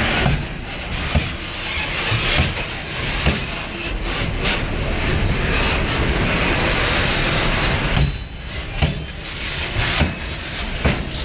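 Freight train rolling past: a steady rumble and rattle of wagons, with irregular sharp knocks of wheels over the rail joints.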